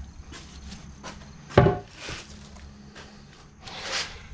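Handling noises from work on a mower: one sharp knock about a second and a half in, then soft rubbing and a short scrape near the end.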